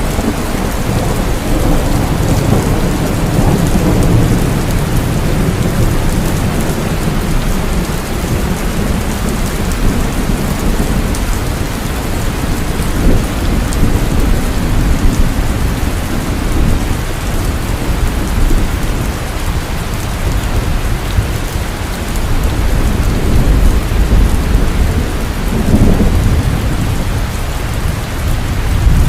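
Heavy, continuous rain with thunder rumbling low beneath it, swelling now and then.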